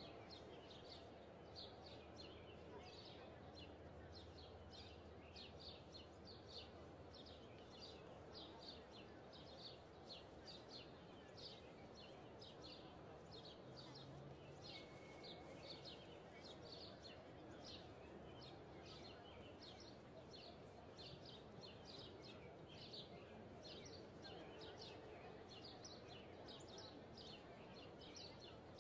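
Faint birdsong: short high chirps repeating about one or two a second over a soft, steady background hiss.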